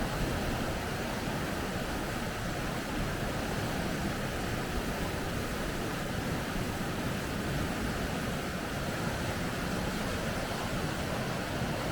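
Rushing water of river rapids, a steady, unbroken rush.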